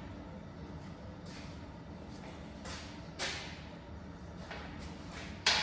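Scattered light knocks and scrapes of metal as an LS engine hanging from a shop engine hoist is lowered and guided into a car's engine bay, with one sharp knock near the end.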